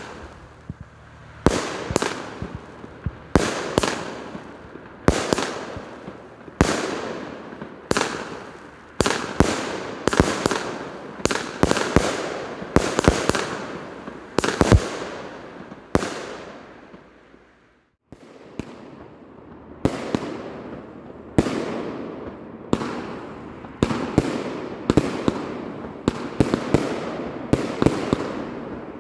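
Argento 'Urania' Category F2 fireworks battery firing shot after shot. Each shot is a sharp bang followed by a fading hiss and crackle, about one every one and a half to two seconds at first. After a brief silent gap about two-thirds of the way through, the shots come faster and run into one another.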